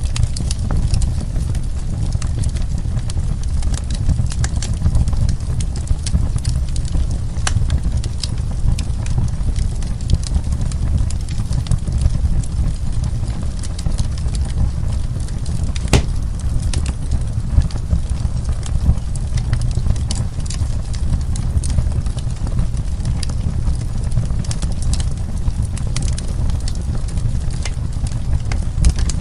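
Wood fire burning: many small crackles and pops over a steady low rumble, with one sharper pop about halfway through.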